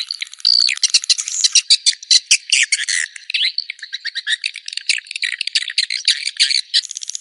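Swiftlet calls: a dense, rapid chatter of high chirps and clicks, the kind of call track played to draw swiftlets into a nest house. Near the end it turns into a faster, even rattling clicking.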